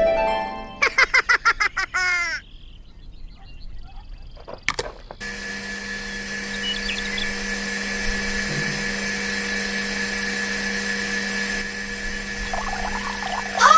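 A small electric motor running at a steady, unchanging pitch, starting just after a sharp click about five seconds in.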